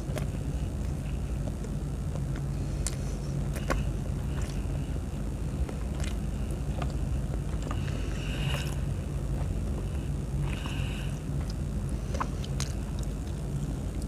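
Close-up eating sounds: chewing and biting with scattered sharp clicks and two brief louder crunches in the second half, over a steady low hum.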